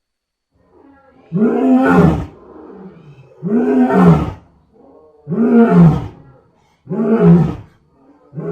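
Lion roaring. After a short silence comes a series of deep calls about every second and a half to two seconds, each rising and falling in pitch, with the later calls shorter.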